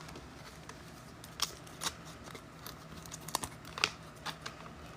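Faint, irregular clicks and rustles of trading cards being handled and flipped through, with a few sharper snaps.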